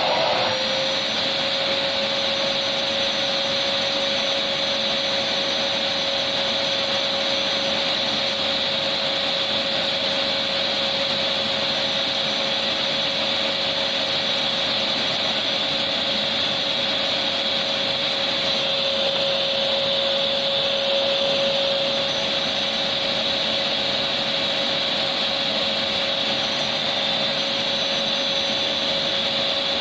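Vacuum cleaner running steadily: an even rush of air with a constant motor whine that settles just after the start and then holds unchanged.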